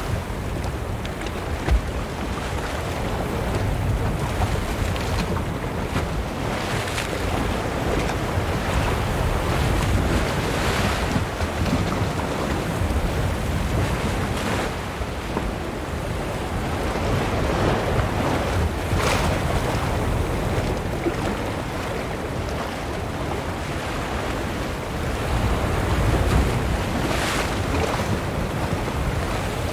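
Ocean surf: waves washing in, with hissing surges every few seconds, over a constant low rumble of wind buffeting the microphone.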